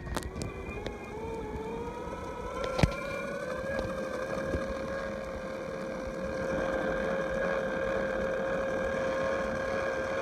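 Electric motor of a battery-powered ride-on vehicle whining as it speeds up, its pitch rising over the first few seconds and then holding steady at cruising speed. There is a single knock about three seconds in.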